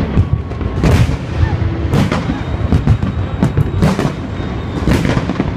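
Fireworks display: aerial shells bursting in quick succession, a heavy boom about every second with lighter cracks between, over a continuous rumble.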